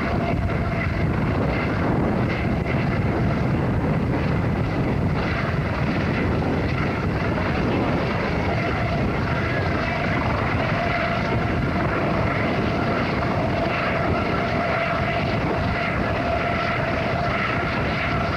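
Steady aircraft engine drone with a broad rushing noise. A faint steady whine grows clearer about halfway through.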